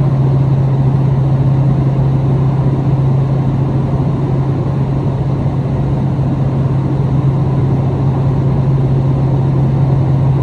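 Interior running sound of a KiHa 261 series diesel railcar under way: a steady, loud low hum over constant rail and running noise, with no change in pace.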